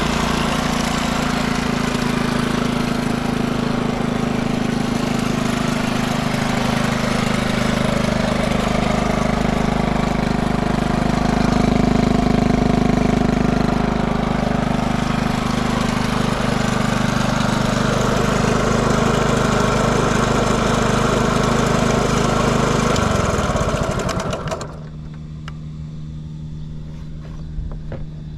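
Honda C70 Cub's single-cylinder four-stroke engine idling steadily, running smoothly with no abnormal noise. About 23 seconds in it is switched off and winds down, leaving a faint steady hum and a few small clicks.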